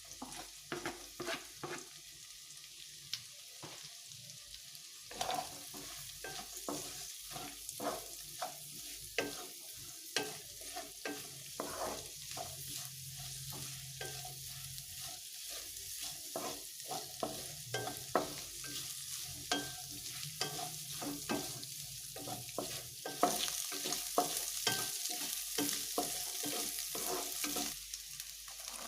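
Food sizzling in a hot pan while being stirred, with the spatula clicking and scraping against the pan many times a second in an irregular rhythm. The sizzling grows louder about three-quarters of the way through.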